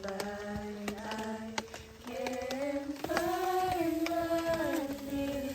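Singing with long held notes: a low note at first, then the voices step up to higher notes about two to three seconds in. Faint clicks sound throughout.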